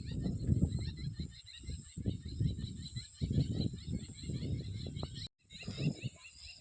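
Jungle babblers chattering in a dense run of short, repeated chirps over a steady high-pitched insect whine, with loud, irregular low rumbling throughout. The sound drops out completely for a moment about five seconds in.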